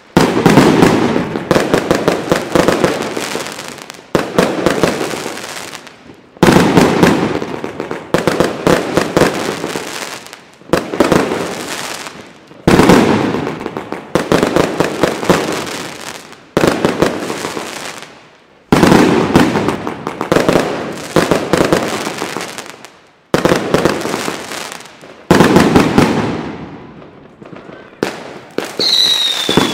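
Aerial fireworks going off in quick succession: a loud bang about every two seconds, each followed by a crackling tail as the stars burn out. Near the end come two falling whistles.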